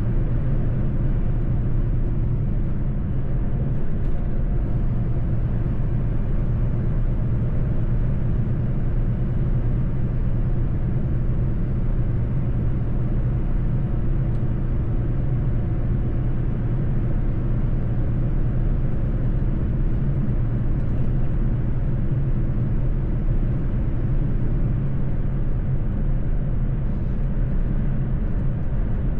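Mercedes-Benz truck driving at a steady speed: a constant low engine drone with road and tyre noise, unchanging throughout.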